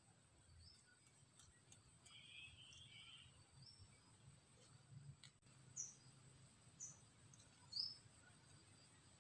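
Faint, quiet forest ambience with small birds calling: a short warbling call about two seconds in and several brief high chirps spaced a second or so apart, the loudest near the end.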